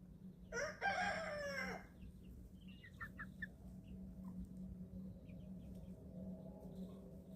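Chicken crowing once, a loud call of about a second and a half near the start, followed by a few short cheeps from the young flock.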